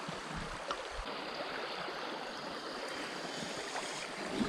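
Shallow river water flowing steadily, with a faint knock about two-thirds of a second in.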